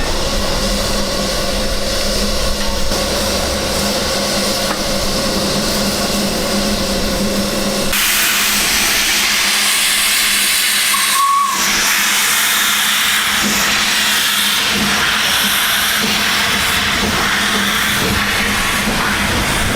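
Steam locomotive blowing off steam: a loud, steady hiss starts suddenly about eight seconds in, and a brief whistle toot sounds a few seconds after. Before the hiss there is a lower rumble with a steady hum.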